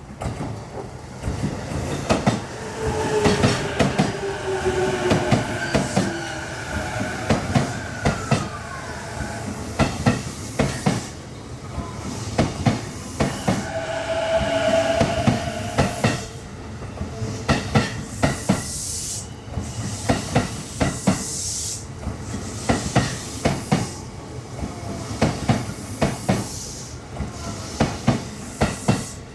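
JR East E233 series electric train running on the rails, its wheels clacking over rail joints again and again. Whining tones come and go, some sliding down in pitch.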